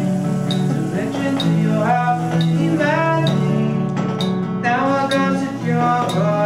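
Acoustic guitar strummed in a live song, with chords changing about every half second and other pitched parts sliding between notes.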